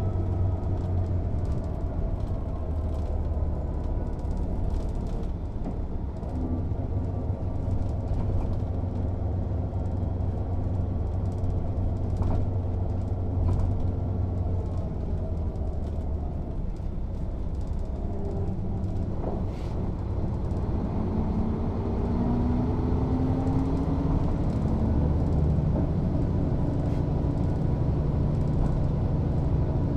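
Mercedes-Benz O 407 city bus's six-cylinder diesel engine running as the bus drives: its pitch falls over the first few seconds as the bus slows, holds steadier through the middle, then climbs from about two-thirds of the way through as the bus accelerates.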